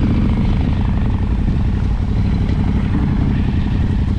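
Off-road motorcycle engines running steadily at low revs.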